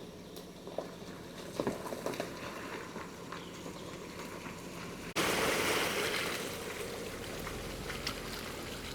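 Creek water flowing, with a few light knocks in the first half. About five seconds in, the sound jumps suddenly to a louder, fuller rush of water.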